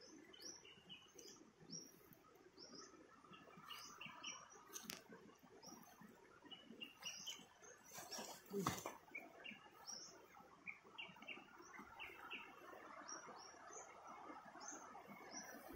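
Faint, repeated short high bird chirps, each a quick falling note, over the rustle of leaves and footsteps as someone pushes through dense fern undergrowth. A louder rustle comes about eight and a half seconds in.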